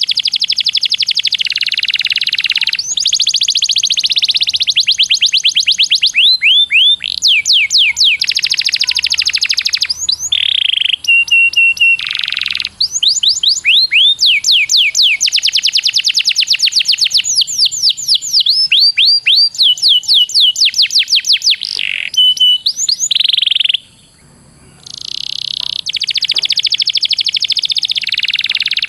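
A songbird singing almost without pause in fast rolling trills: long runs of rapid, sweeping high notes, some held as buzzy stretches, with a brief break about three-quarters of the way through.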